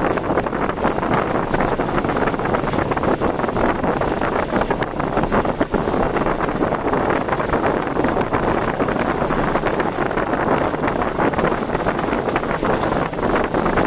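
Steady, loud rushing noise of a car driving in stormy typhoon weather: road and wind noise with no single event standing out.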